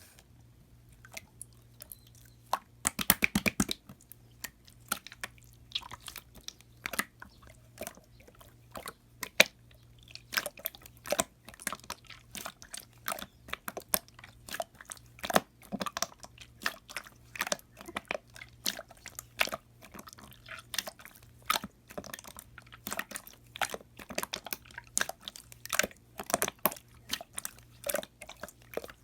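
Clear slime marbled with pink being worked by hand, giving irregular sharp sticky clicks and pops. A quick run of clicks comes about three seconds in, and the clicks come thicker from about ten seconds on.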